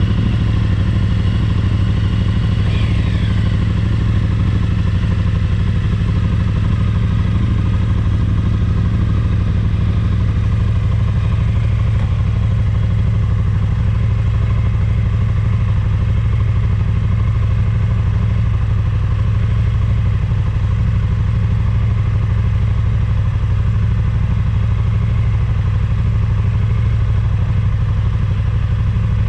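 Motorcycle engine running steadily at an unchanging pitch, with a brief falling tone about three seconds in.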